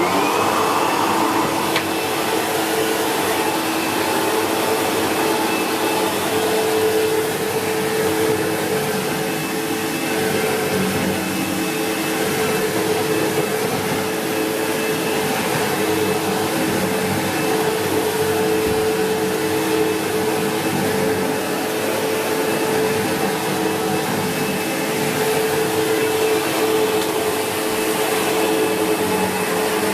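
SEBO X4 Extra upright vacuum cleaner switched on, its motor spinning up with a rising whine, then running steadily with a constant hum.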